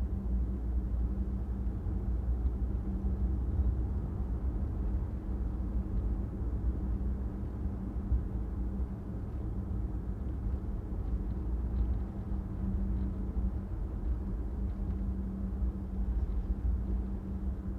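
A car driving on a city street: steady low tyre and engine rumble with a constant hum.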